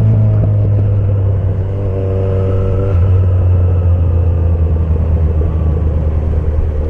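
Suzuki Bandit 1250 inline-four running on a straight pipe with no muffler, idling with a deep, steady rumble after revs settle at the start.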